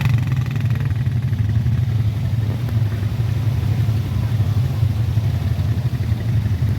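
Quad bike engine running steadily under way, with a constant low hum and no clear revving.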